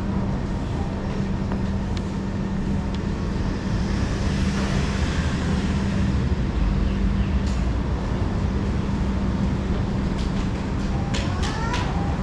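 Singapore MRT East-West Line train running, heard from inside the car: a steady electrical hum over the rumble of wheels on track. About eleven seconds in there are a few sharp clicks and a brief rising squeal.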